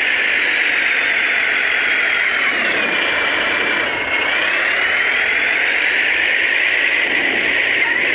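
Cartoon race car engine sound effect running steadily, its high whine sinking slowly, dipping about four seconds in, then rising again.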